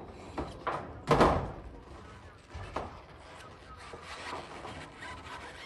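Irregular knocks and bangs, with the loudest bang a little over a second in and fainter knocks after it.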